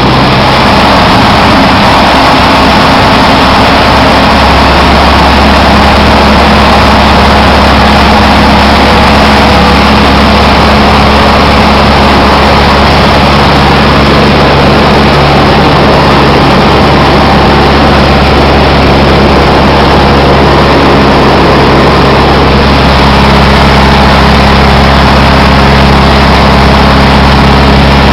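Cessna 152's four-cylinder Lycoming piston engine and propeller running with a loud, steady drone; the pitch shifts slightly a couple of times as the power setting changes.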